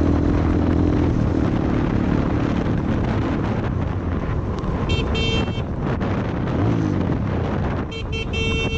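Motor vehicle engine running steadily under road and wind noise, with a vehicle horn sounding twice: a short honk about five seconds in and a longer one near the end.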